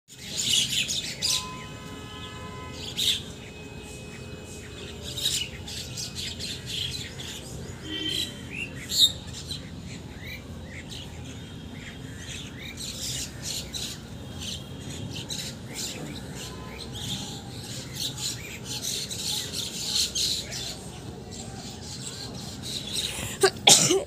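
Several birds chirping in a tree, many short, sharp chirps overlapping throughout, over a steady low background noise.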